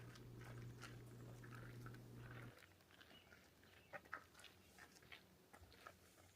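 Near silence: faint scattered clicks and ticks, with a low steady hum that cuts off about two and a half seconds in.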